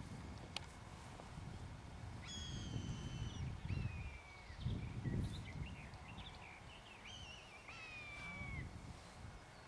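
A bird calling repeatedly with drawn-out, high whistled notes, some held level and some sliding down in pitch, in two groups starting about two seconds in and about seven seconds in. Under it is a low rumble of wind on the microphone.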